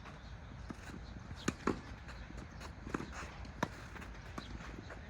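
Tennis rally: about four sharp pops of the ball off rackets and the court, spaced roughly a second apart, two of them close together near the middle, over a low steady hum.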